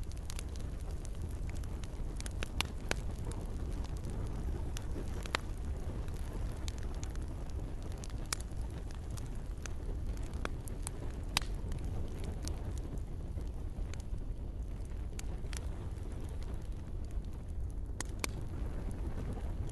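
Campfire crackling, with scattered sharp pops at irregular moments over a steady low rush.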